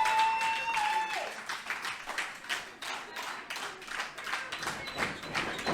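Crowd clapping at a wrestling show, sharp claps through the whole stretch, with one voice holding a long shout for about the first second.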